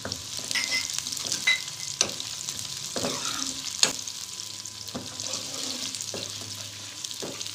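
Cubed potatoes, onions and spice paste sizzling in hot oil in a metal kadai while a metal ladle stirs them, scraping and knocking against the pan several times, loudest a little under four seconds in. The potatoes are being fried (bhuna) just after going in.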